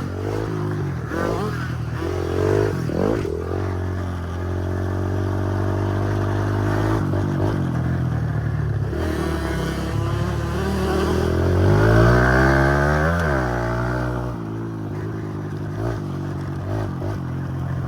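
Small dirt-bike engines running, among them a 50cc two-stroke youth motocross bike on a 90 main jet, revving up and down over a steady lower engine drone. The pitch sweeps up and down several times, with its biggest climb and drop about twelve to thirteen seconds in.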